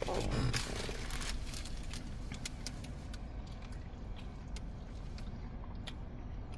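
Steady low rumble of a car interior, with a cluster of crinkles in the first second or so, then scattered small clicks and rustles as food and a sauce cup are handled while eating.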